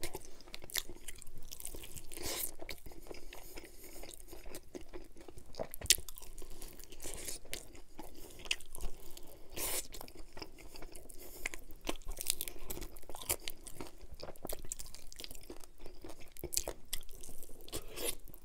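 Chewing and biting into a crispy, saucy fried chicken drumstick, with many short, scattered crunches.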